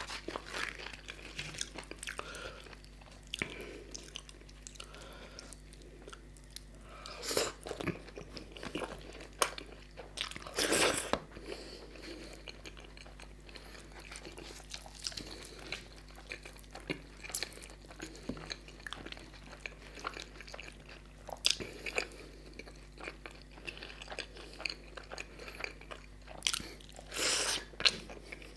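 Close-miked eating: chewing, biting and wet mouth sounds as puri and chicken curry are eaten by hand, with the soft fried puri torn and handled. A few louder strokes come about 7, 11 and 27 seconds in.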